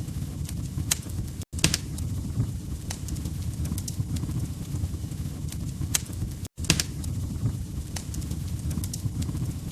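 Log fire crackling: irregular sharp pops and snaps over a steady low rumble of flames. The sound cuts out completely twice, for a split second each time, about one and a half seconds in and again about six and a half seconds in.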